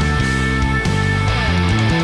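Progressive metal song with electric guitars and drums over a driving electric bass line played on a Spector Euro LX bass with an LHZ-04 preamp, with sustained high guitar notes held above.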